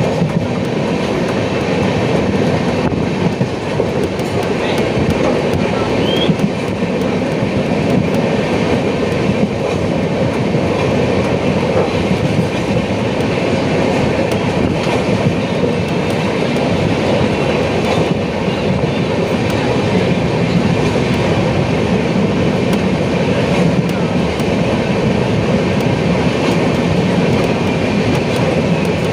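Passenger train running at speed: the steady noise of its wheels on the rails, heard from inside the coach.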